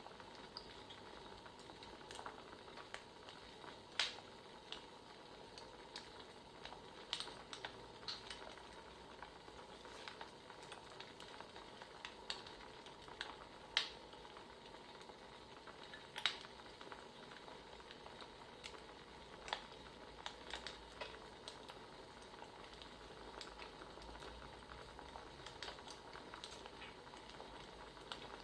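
Wood fire crackling faintly: a steady soft hiss broken by irregular sharp pops, with the loudest pops about 4, 14 and 16 seconds in.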